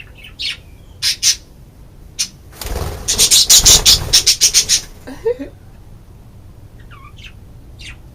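Baby budgerigar chick, about twelve days old, squawking in short high calls while being held, with a rapid loud run of calls about three seconds in. The calls are a sign of an unhappy, protesting chick.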